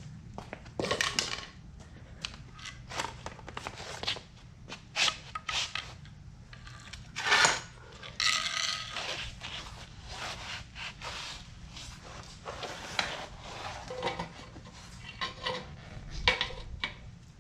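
Hand tools and metal parts clinking, knocking and scraping at irregular intervals during scooter repair work, with a longer, louder scrape about seven seconds in.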